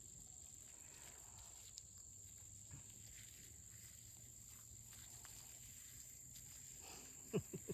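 Near silence: faint outdoor ambience with a steady high-pitched whine and a low hum, and a couple of brief clicks near the end.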